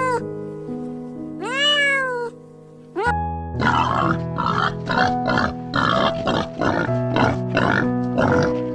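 Background music with held notes under animal calls: one drawn-out call that rises then falls in pitch about a second and a half in, then from about three and a half seconds a quick run of short grunts.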